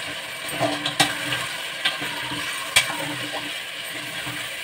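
Chicken and potato curry sizzling in an aluminium pressure cooker pot while a spoon stirs in curd. The spoon clicks against the pot about one, two and almost three seconds in.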